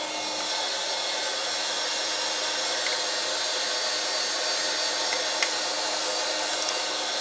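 Vacuum cleaner running steadily with a constant hum, sucking dust out of the inside of a cassette recorder.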